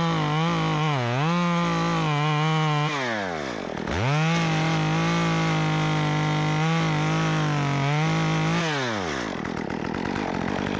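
Stihl MS 194T top-handle two-stroke chainsaw with a 1/4-inch pitch chain conversion, running at full throttle through a branch, its pitch dipping briefly as the chain bites. The revs fall away about three seconds in, pick up again a second later and hold, then drop off to idle near the end.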